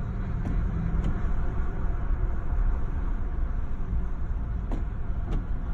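Steady road and engine rumble heard from inside a moving car's cabin, with a few faint clicks.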